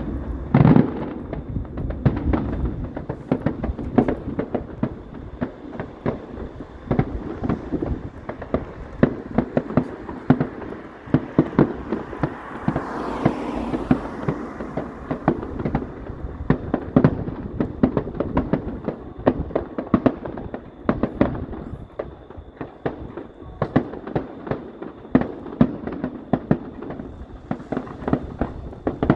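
A fireworks display going off in a dense, continuous barrage of irregular bangs and crackles, several a second, with a brief rising hiss about halfway through.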